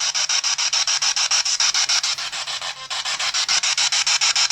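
Spirit box sweeping rapidly through radio stations: a steady hiss of static chopped into about ten pulses a second, with a brief dip in the static about three seconds in.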